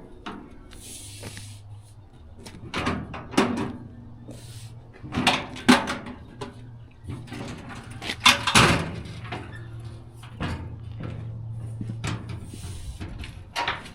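Latches being worked and the side panels of an electric trike's dump bed being folded down: a string of irregular knocks and clacks over a faint steady low hum.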